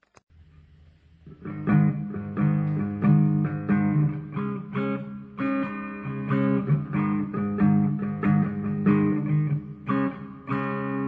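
Guitar playing a riff of plucked notes and chords, starting faintly and coming in fully about a second in.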